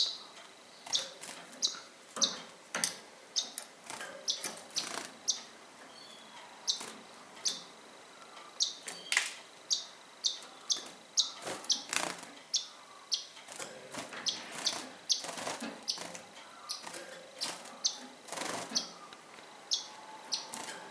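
Small pet birds chirping repeatedly, short high chirps every half-second or so, mixed with brief rustling noises.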